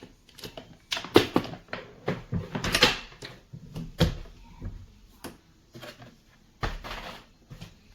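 Plastic-and-metal folding hand truck being handled: a string of sharp clicks and clunks from its frame, wheels and latches, the loudest knocks about a second, three seconds, four seconds and near seven seconds in.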